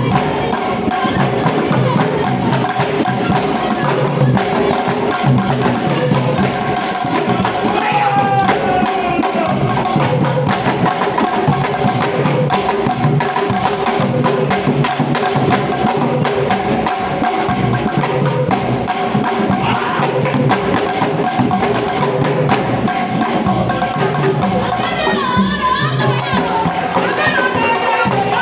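Drum and percussion music played at an even, dense beat throughout, with a few brief sliding tones above it.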